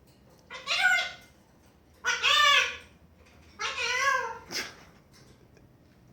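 Congo African grey parrot making three short, speech-like calls about a second apart, followed by a brief click.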